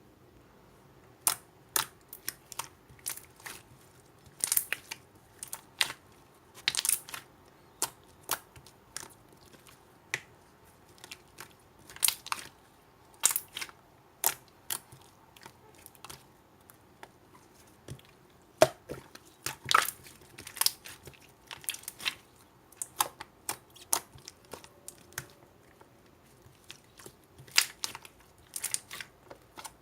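Slime being squeezed and pressed by hand, giving off irregular sharp crackling pops as air pockets burst, some coming in quick clusters.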